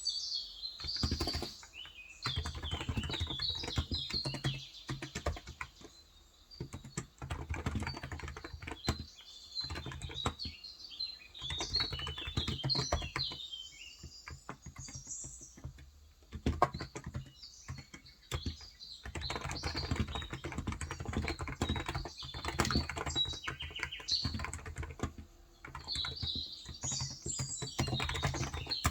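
Typing on a Cox Endeavor contactless (electro-capacitive) 35 g tenkeyless keyboard, in runs of keystrokes broken by short pauses. Small birds chirp in the background, most around the start, in the middle and near the end.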